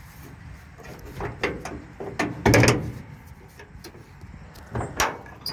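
Sheet-metal hood of an old truck being unlatched and opened: a run of metal clanks and rattles, the loudest about two and a half seconds in and another near the end.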